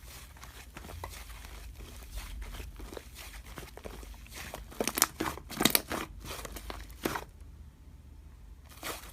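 Slime being handled, giving a run of small clicks and pops, densest and loudest about five to six seconds in, with a short lull near the end.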